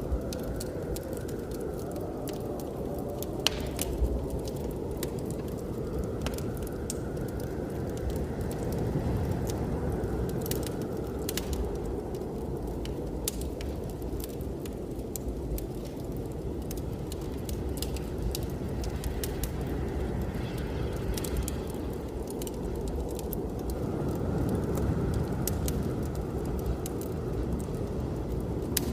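Wood fire crackling with scattered sharp pops over a steady low rush of blizzard wind, with a faint howl that swells and eases every few seconds.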